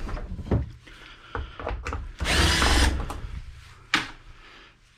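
Power drill running briefly, under a second, about two seconds in, likely backing out a screw from an old computer case, with knocks of handling around it and a sharp click near the end.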